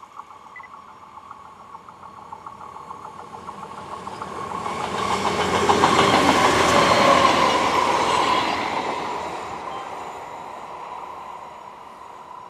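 Double-deck electric TER passenger train passing by: a rising rush of wheels on rail that peaks with rapid clicking of the wheels about halfway through, then fades away.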